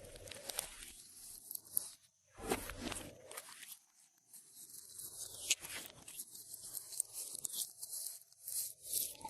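Glossy slime being worked by hand, making irregular crackles and small clicks from air caught in it, with brief pauses.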